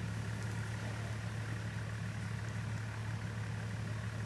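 Motor vehicle engine running steadily, an even low hum.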